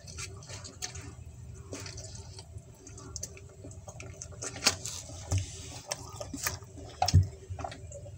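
Close-miked wet chewing, lip-smacking and sucking clicks as a person eats with their hands, with a louder thump about seven seconds in.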